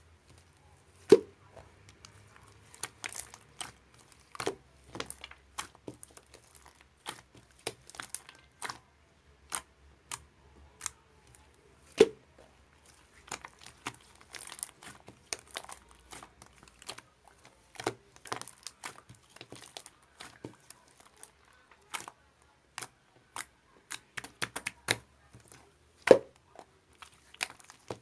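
Slime being pressed, squeezed and stretched by hand, giving a run of irregular sticky clicks and crackling pops, three of them much louder.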